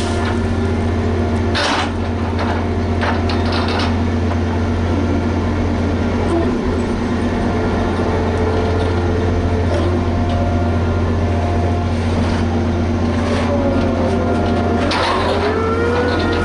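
Liebherr HS 8200 dragline excavator running steadily with a deep, constant engine drone. A few short knocks come a couple of seconds in and again near the end, where a whine rises and then falls.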